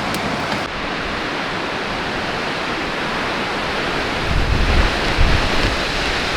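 Steady rushing hiss of heavy rain and wind in a storm. From about four seconds in, gusts buffet the microphone in uneven low rumbles.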